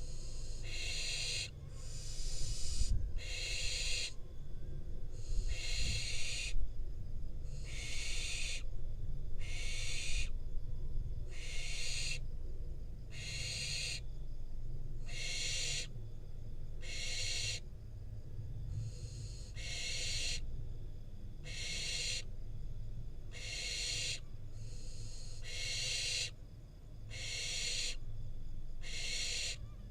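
Barn owl young giving their rasping, hissing begging calls (the 'snore'), one drawn-out hiss about every second, over a low rumble.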